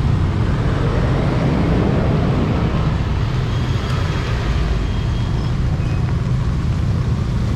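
Steady road traffic: a motor vehicle's engine rumbling low and continuously close by, under a haze of street noise.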